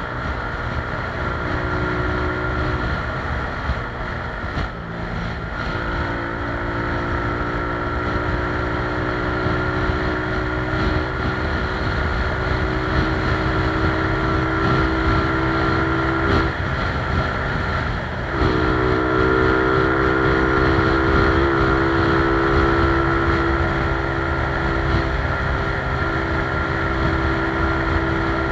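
Small motorcycle engine held at full throttle, a steady high drone over wind noise on the microphone; the note briefly drops away about five seconds in and again around eighteen seconds in, then comes back.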